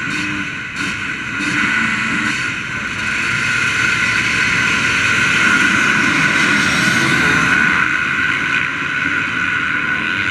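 Motocross bike engines running at high revs, growing louder from about three seconds in and easing off again near the end.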